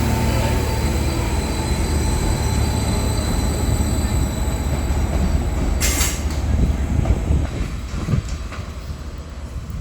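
Class 756 train pulling out of the station: a heavy rumble with a steady high-pitched squeal over it. A short hiss comes about six seconds in, and the rumble then fades as the train moves away.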